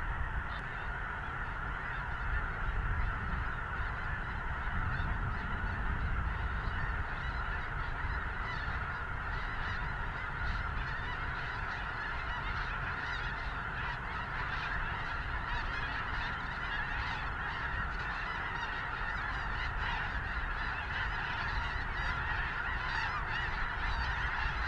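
A huge flock of snow geese calling all at once, a dense, continuous din of overlapping honks with no single bird standing out, and a low rumble of wind on the microphone beneath.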